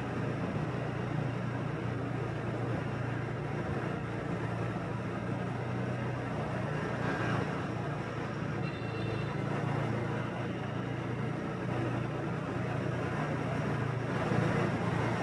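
Motorbike engine running steadily on the move, heard from the rider's seat with tyre and street noise around it. A brief high tone sounds about nine seconds in, and the noise swells slightly near the end.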